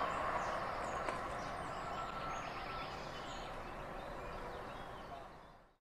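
Train running away along the track, its rumble slowly fading as it recedes, with birds chirping faintly over it; the sound fades out just before the end.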